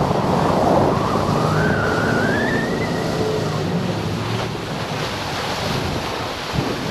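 Moggaro 600WJ aluminium jet boat under way: water rushing and wind on the microphone over the engine's steady running, with a whine rising in pitch between about one and three seconds in.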